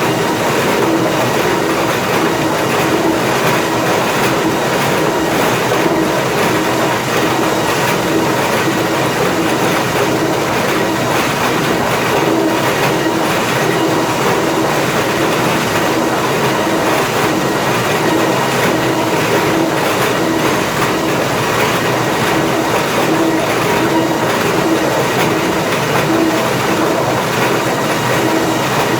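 Lumber planer infeed machinery running: a steady mechanical hum under continuous irregular rattling and clatter of conveyor chains and boards.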